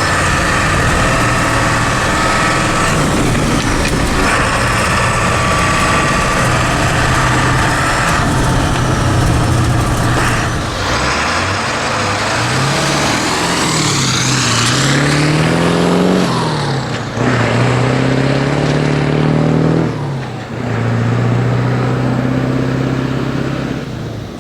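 The 7.3 L Powerstroke turbo-diesel V8 of a 1976 Ford F600 pulling the truck along. Its pitch holds steady at first, then rises and drops several times over the second half as the truck accelerates and shifts gears.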